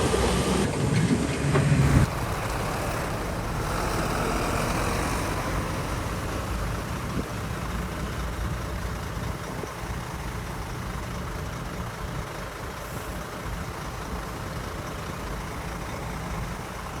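Diesel engine of heavy earthmoving machinery running steadily, a low drone that slowly fades. A louder, rougher rumble at the start cuts off abruptly about two seconds in.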